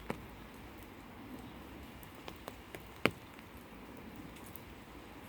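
Gentle rain: scattered drops landing close by, one sharper drop about three seconds in, over a faint steady hiss.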